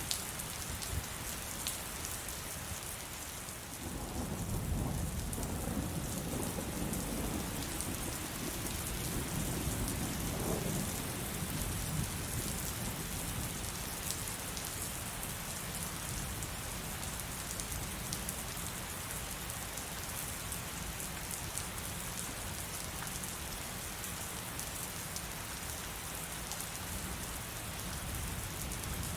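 Heavy rain falling steadily, with a long roll of thunder that swells about four seconds in and rumbles away over the next several seconds.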